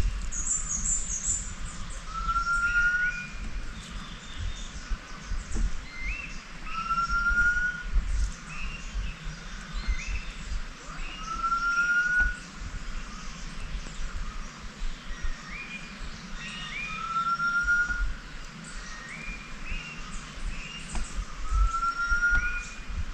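Birds calling: one short rising whistle repeats about every four to five seconds, with scattered shorter chirps from other birds around it. Low rumbling thumps from wind or handling run underneath.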